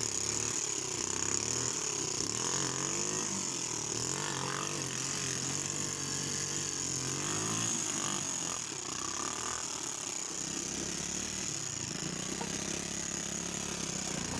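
Quad-bike engine running just after being restarted from a stall in water. Its pitch rises and falls several times as it is revved, then it runs more steadily in the second half.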